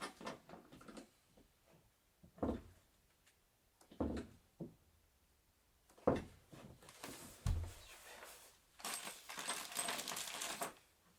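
Wooden bed parts being handled during assembly. A few separate knocks come in the first half, with a heavier thump past the middle. Near the end there is a longer stretch of scraping and rustling.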